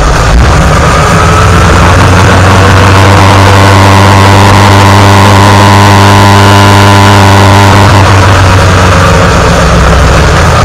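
Yamaha XJR1300's air/oil-cooled inline-four engine running at steady revs, with a constant rush of noise over it.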